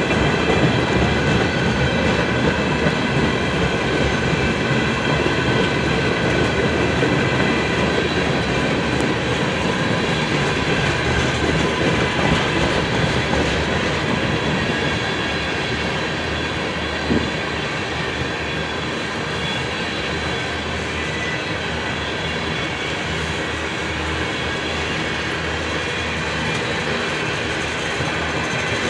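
Empty crude-oil tank cars of a freight train rolling steadily past, wheels clicking over the rail joints, with a steady high ringing from the wheels.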